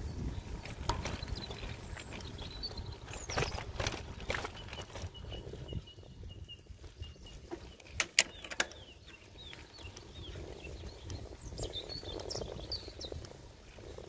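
Small songbirds chirping, with short high sliding calls and one held high note in the middle, over low wind and road rumble on the microphone of a moving bicycle. Two sharp clicks about eight seconds in.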